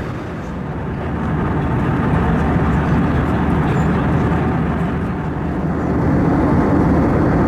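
Steady rumble of an Airbus A321 in flight, the jet engines and airflow heard as a low, even roar that swells slightly after the first second and again near the end.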